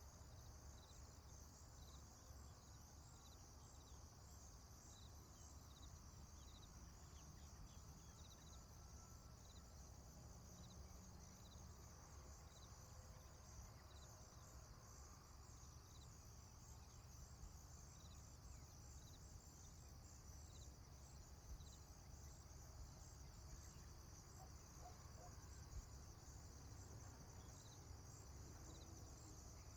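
Faint rural ambience: insects chirring steadily high up, with a short chirp repeating about once a second, over a low rumble.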